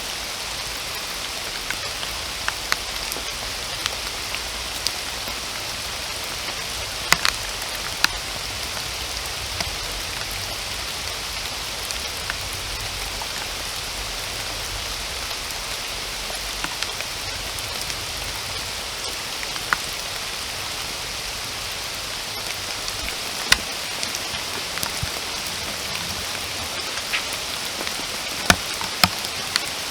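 Steady rain falling in a forest, an even hiss with scattered individual drops landing close by as sharp taps, a few louder ones standing out.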